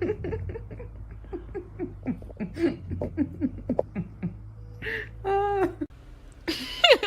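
A person laughing in a long run of quick chuckling pulses, then a few longer pitched vocal sounds near the end.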